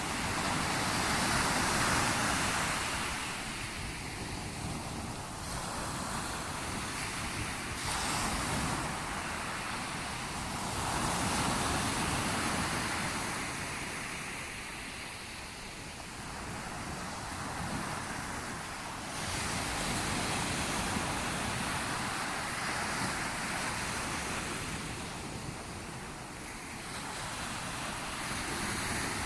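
Sea waves breaking and washing onto the shore, the surf swelling and fading in slow surges every several seconds.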